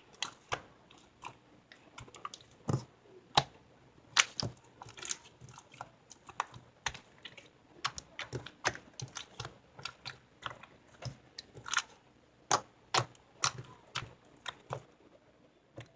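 Irregular sharp clicks and taps, a few a second, some much louder than others; they stop just at the end.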